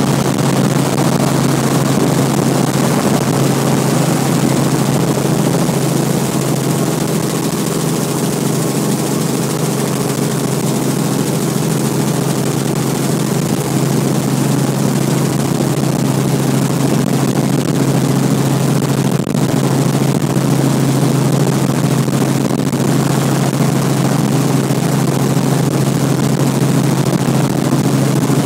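Helicopter in flight: a steady, loud hum from the engine and rotors with a constant rushing noise over it.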